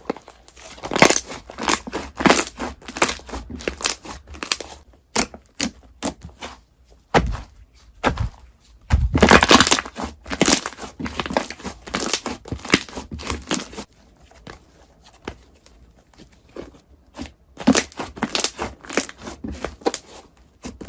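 Crunchy slime being squeezed and pressed by hand, giving dense runs of crackling crunches, with a quieter lull past the middle before the crunching starts again.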